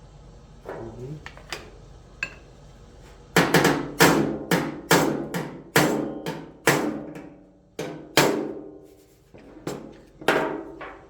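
Hammer striking a sheet-metal body panel: a few light taps, then about three seconds in a run of about a dozen hard, uneven blows, each ringing and fading, as the metal is worked to take out a high spot.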